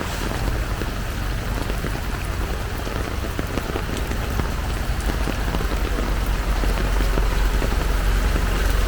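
Heavy downpour: a steady, dense patter of rain with a low rumble underneath.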